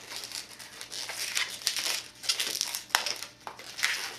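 Latex twisting balloons rubbing and rustling in the hands as they are handled, with irregular scrapes and a sharp click just before three seconds in.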